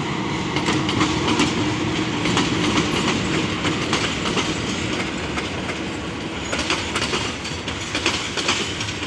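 Passenger train departing: its coaches roll past with steel wheels clacking over the rail joints in an irregular run of clicks. A low steady drone from the train fades out after the first few seconds.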